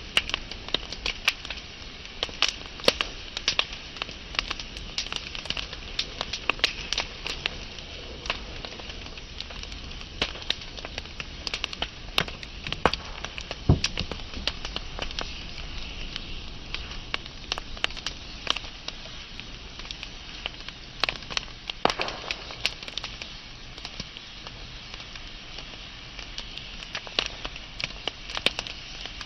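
Wood fire burning, with a steady hiss and frequent irregular crackles and sharp pops of burning logs.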